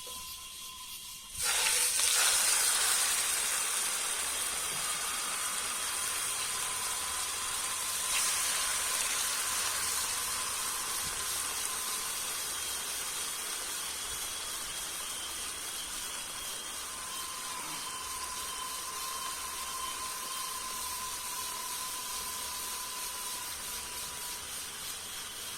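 Beef steak frying in a hot pan: a loud sizzle starts suddenly about a second in as the meat goes into the pan, then continues as a steady hiss that slowly eases.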